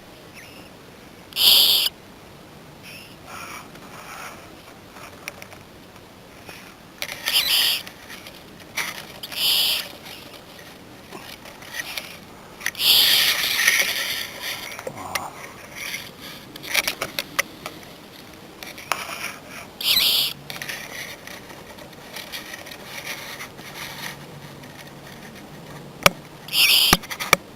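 Common moorhen chicks giving high-pitched cheeping calls, about seven short calls spaced several seconds apart, with one longer call about halfway through. A few sharp clicks fall between the calls.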